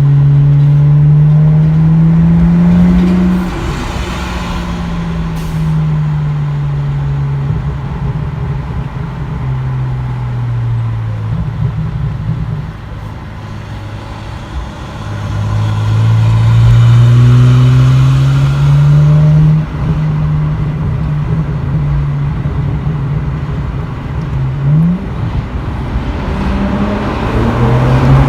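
BMW E90 335i's turbocharged straight-six with a muffler delete, heard from inside the car through open windows while driving. The exhaust note rises under acceleration for the first few seconds and falls away, rises again from about fifteen seconds in and drops suddenly near twenty seconds, then holds lower with a quick rev blip near the end.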